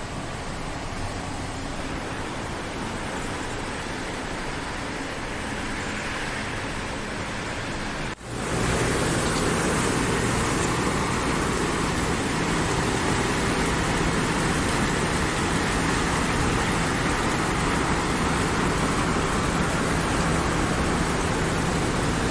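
Steady rushing of a river in spate. After a brief break about eight seconds in, it comes back louder and fuller.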